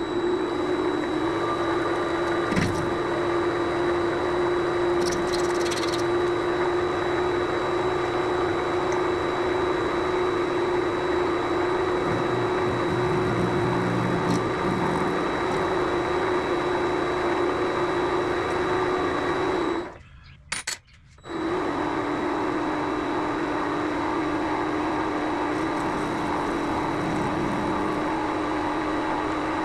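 Vevor MX400 mini lathe running in reverse, its motor and gearing giving a steady hum with a faint high whine while a piece is turned. About two-thirds of the way through it cuts out for a second, with a click, then runs on at a slightly lower pitch.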